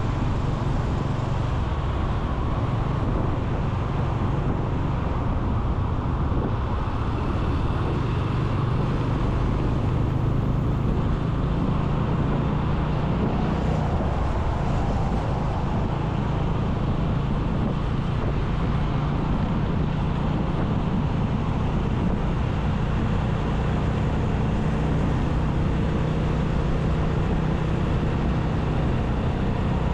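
Motorcycle running at a steady cruising speed, its engine a constant low drone under wind and tyre rush, with surrounding traffic.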